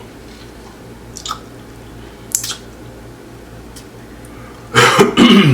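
A person chewing a crunchy hard-shell taco, with a couple of short crunches in the first half. Near the end comes a loud vocal sound from the eater that falls in pitch.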